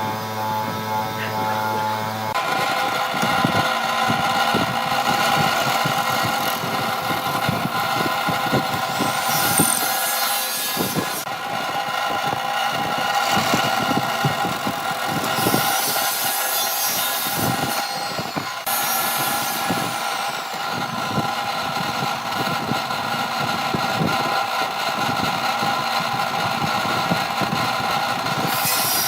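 Electric woodworking power tool running with a steady whine, cutting into wood with irregular knocks and scraping. Its tone changes about two seconds in, and there are two longer stretches of high hissing cutting noise, about a third and two-thirds of the way through.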